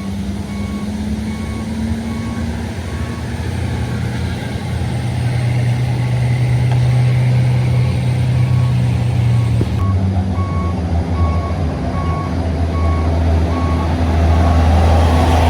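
Heavy vehicle's engine running loud, its pitch rising slowly and then dropping about ten seconds in, under a steady beeping alarm of about two beeps a second that pauses briefly and starts again.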